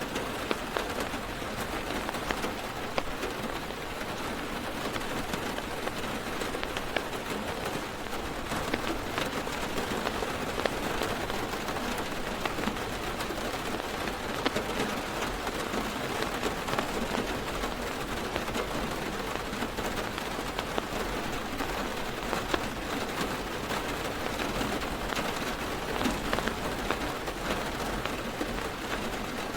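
Heavy rain falling on a car's roof and windows, heard from inside the car: a steady hiss dotted with many sharp drop taps.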